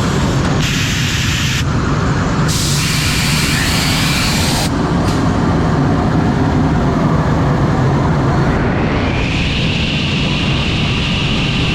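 CNC router milling beech boards: a loud, steady machine noise with a low hum. A hissy cutting sound cuts in and out twice in the first few seconds, and a steady high-pitched spindle whine comes in near the end.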